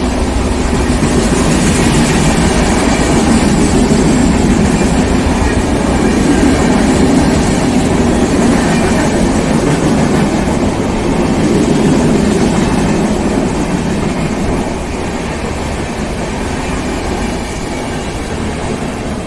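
Indian Railways LHB passenger coaches rolling past on the track: a steady, loud rumble of wheels on rail that grows quieter over the last few seconds.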